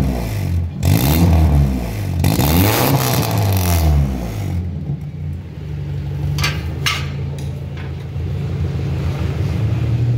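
Engine with an aftermarket racing exhaust revved in several quick blips, its pitch rising and falling, then settling to a steady idle a little under halfway through.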